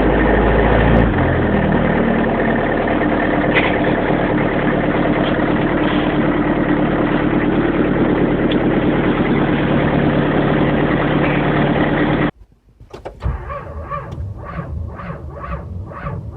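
Diesel engine running steadily at idle after a hard cold start in severe frost. About twelve seconds in it cuts off abruptly, followed by a quieter, even pulsing about twice a second.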